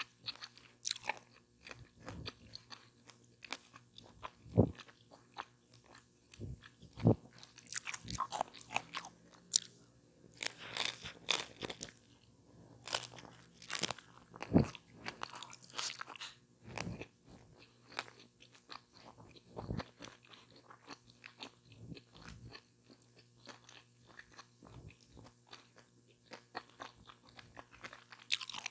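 Close-miked eating of a chicken taco with lettuce: irregular crisp crunching bites and chewing, densest and loudest about a third of the way through, with quieter chewing later.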